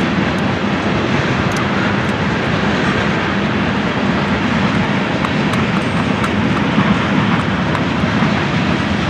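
Freight cars of a long mixed freight train rolling past: a steady, even rush of steel wheels on the rails, with no change in level.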